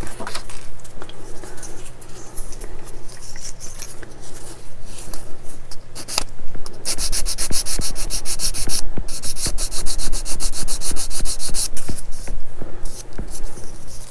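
Small plastic model-kit part being sanded by hand in quick back-and-forth strokes. The strokes start irregular, then settle into a steady rhythm of about six a second for several seconds before stopping.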